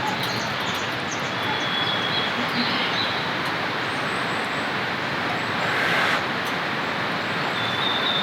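Heavy rain falling steadily, an even hiss with a brief swell about six seconds in.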